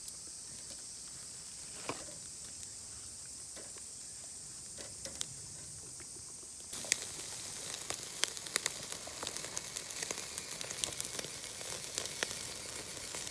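Insects chirping steadily at a high pitch, then, about seven seconds in, food sizzling over a charcoal grill: a steady hiss with many sharp crackles and pops.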